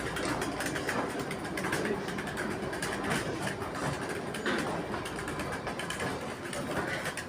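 Kalka–Shimla narrow-gauge toy train running into the station, a steady mechanical noise with a low rumble that fades about halfway through.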